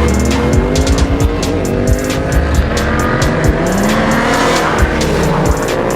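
A car's engine revving hard, its pitch climbing several times, with tires squealing, over music with a steady beat.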